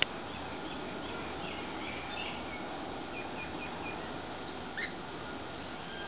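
Faint bird chirps and twittering over a steady background hiss, with a quick run of five short, even notes about three seconds in and a single louder, sharper note near the end. A sharp click right at the start.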